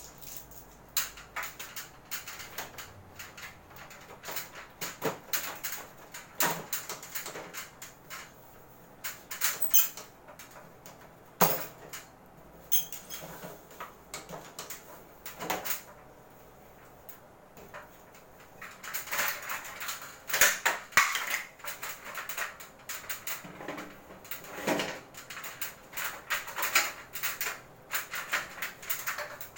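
Irregular clicks, knocks and light rattles of the plastic casing of a Panasonic Sky Series split air conditioner being handled, with a quieter stretch in the middle and a busier cluster after it.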